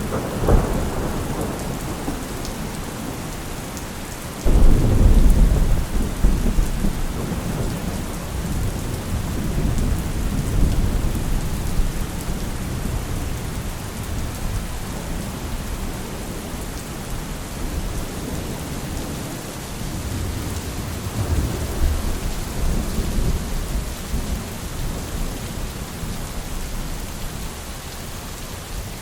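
Steady rain with thunder: a sharp crack just after the start, then a sudden deep rumble about four and a half seconds in that slowly dies away, with softer rolls of thunder later over the constant hiss of the rain.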